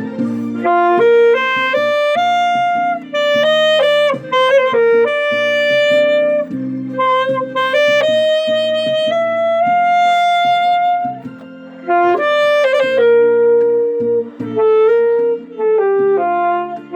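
Alto saxophone playing a slow melody of long held notes over a backing track with keyboard accompaniment.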